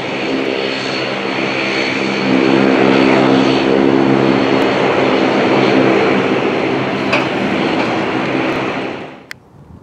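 The CFM56 jet engines of a WestJet Boeing 737-800 running loud and steady as the airliner lands, with a thin high whine over a low engine drone. The sound drops off abruptly about nine seconds in.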